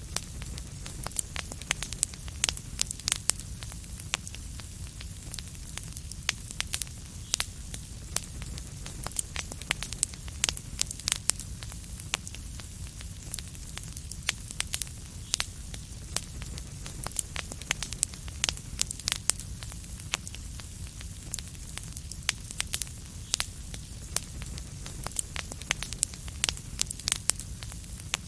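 Wood fire in a fireplace crackling: frequent sharp, irregular pops and snaps over a steady low rumble and soft hiss.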